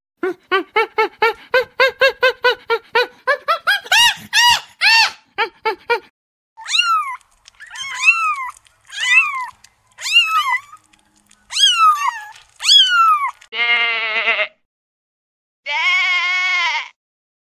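A monkey's rapid chattering calls, about five a second, climbing in pitch, then a kitten mewing six times in high, arched mews, then a sheep bleating twice near the end.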